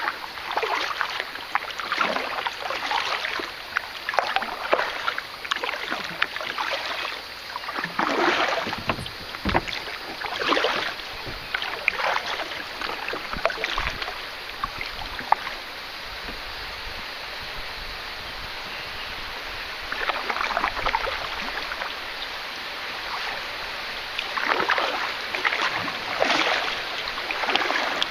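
Canoe paddle strokes in river water, splashing in uneven surges about once a second. In the middle the strokes pause and only a steady rush of water is left, then the splashing resumes near the end.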